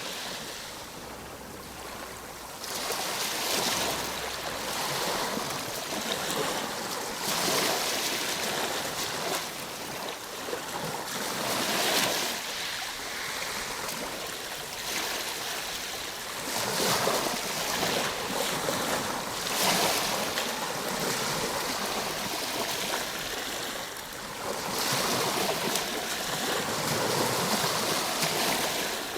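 Ocean waves breaking and washing in, a continuous rushing hiss that swells and eases every few seconds.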